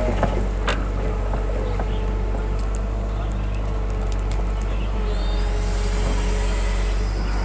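Excavator's diesel engine running steadily, with a thin steady tone over it and a few sharp clicks about a second in.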